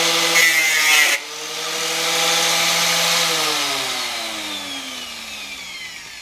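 Angle grinder cutting through exhaust metal for about a second. It then runs free at full speed for a couple of seconds before it is switched off and its motor winds down with a steadily falling whine.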